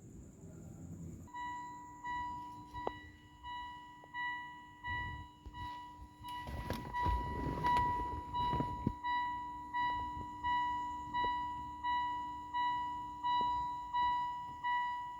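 Electronic warning chime of a car, a single pitched ding repeating steadily about one and a half times a second. A rustling, knocking burst of handling noise in the middle.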